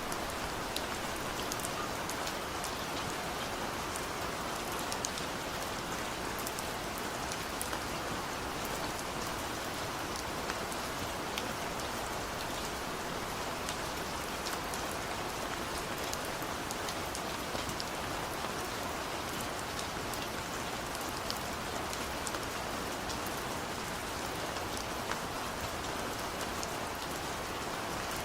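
Heavy rain falling steadily in a forest, a dense even hiss with countless small drop strikes on leaves and surfaces.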